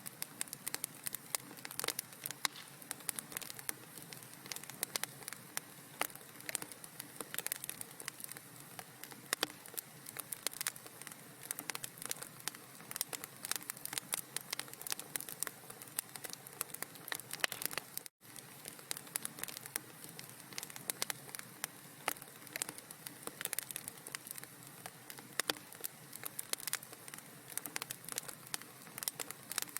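Wood fire crackling in a fireplace: a dense, irregular run of small pops and snaps over a soft hiss, breaking off for an instant about two thirds of the way through.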